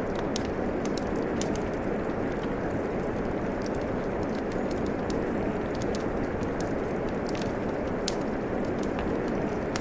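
Steady rain with a wood fire crackling, its sharp pops and snaps coming at irregular moments over the rain's even hiss.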